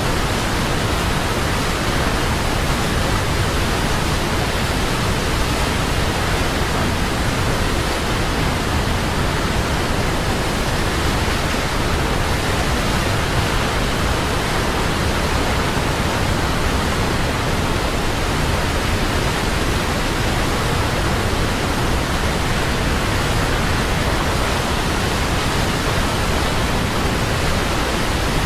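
Large waterfall: a steady, dense rush of falling water.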